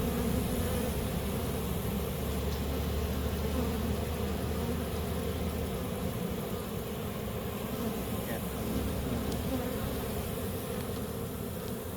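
A swarm of honey bees buzzing around an opened hive during an inspection: a steady, continuous drone of many bees.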